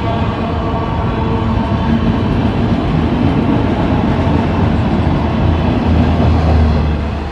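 A train running by on the rails: a loud, steady rumble and rattle, with a deep low hum that grows strongest near the end.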